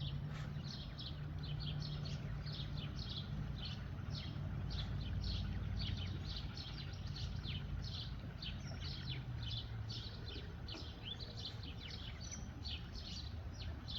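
Many birds peeping: short, high, downward-sliding chirps, several a second and overlapping, over a low steady hum.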